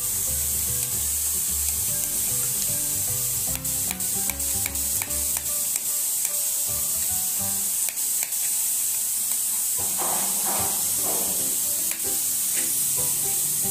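Light clicks of a knife against a steel plate while dhokla is cut into pieces, over background music and a steady high hiss.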